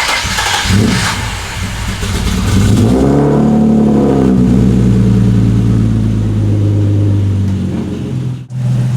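Turbocharged Nissan 370Z's V6 engine running: the revs rise about three seconds in, then hold at a steady raised idle.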